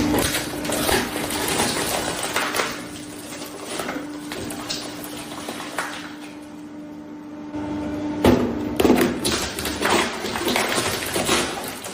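Shredder motor humming steadily while its blades crack and crunch through a plastic Super Soaker toy water gun. The cracking eases off a little past the middle, then a loud crunch about eight seconds in starts a dense run of snapping plastic.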